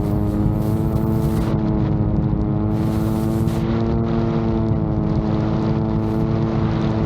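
VTOL drone's motors and propellers running with a steady hum whose pitch wavers slightly, over a low rumble of wind on the microphone.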